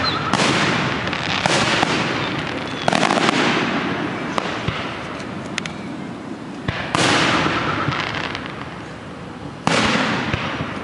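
Aerial fireworks shells bursting: about five sharp booms, each rolling away into a fading rumble, with a few scattered crackles in the lull between them.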